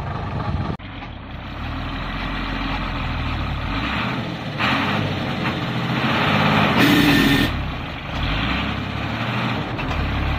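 Diesel engine of a modified six-wheel-drive Hino truck running, its pitch and loudness rising and falling as it works, with a short hiss of air about two-thirds of the way through.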